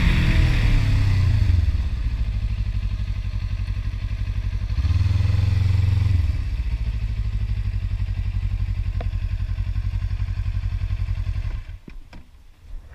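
Kawasaki Ninja motorcycle engine winding down as the bike slows, then running at low revs with an even pulse. There is a louder stretch about five seconds in. The engine cuts out near the end, followed by a few light clicks.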